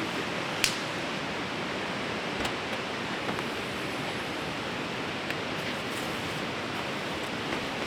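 A fast river rushing steadily, a constant even wash of water noise. A single sharp click stands out a little over half a second in, with a few fainter ticks after it.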